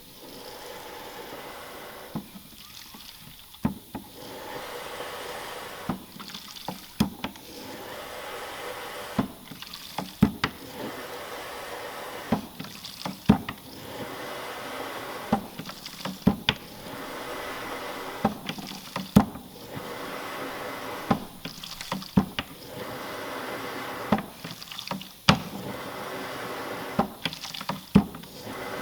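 Hand pump forcing liquid tyre sealant through a tube into a tyre valve, stroke after stroke, with a wet squirting sound on each push and sharp clicks as each stroke ends, about every three seconds.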